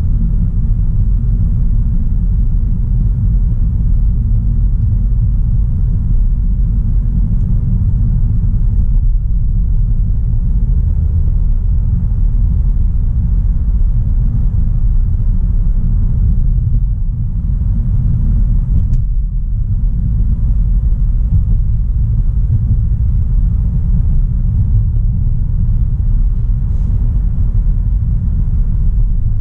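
A 2016 Audi A3 Sportback with a 1.4 TFSI turbocharged four-cylinder petrol engine on the move: a steady low rumble of engine and road noise, briefly easing about 17 to 19 seconds in.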